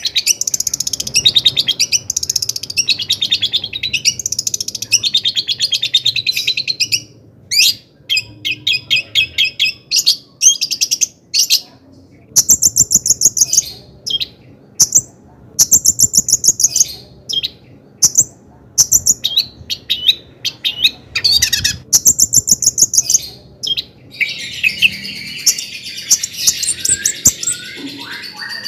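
Long-tailed shrike (cendet) singing a loud, high-pitched chattering song. Its phrases are strings of rapid repeated notes, broken by short pauses.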